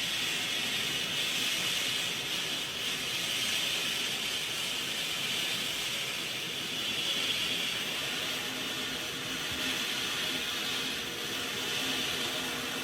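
Steady hiss with a faint hum underneath.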